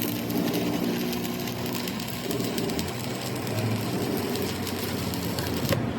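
A machine running steadily, with a low even hum and a fine rapid ticking over it.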